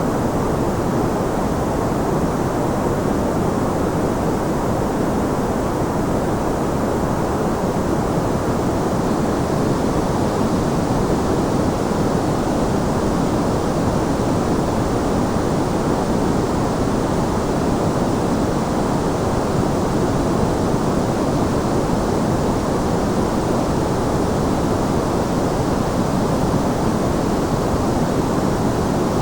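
Steady white-noise track: an even, deep hiss with little treble that does not change.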